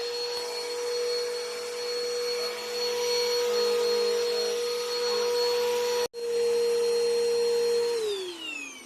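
Bissell PowerLifter backpack vacuum running with a steady motor whine. It cuts out for an instant a little after six seconds in, then is switched off near the end, its whine falling in pitch as the motor spins down.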